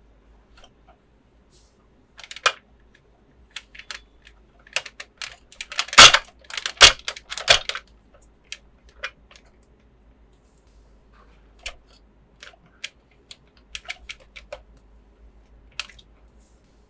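Hands unboxing and handling a plastic toy playset: irregular clicks, taps and crinkles of plastic and packaging, loudest in a short cluster about six to seven and a half seconds in.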